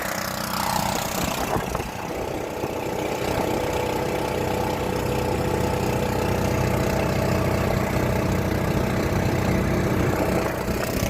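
Engine running steadily with an even hum. Wind on the microphone adds a hiss for the first second or two.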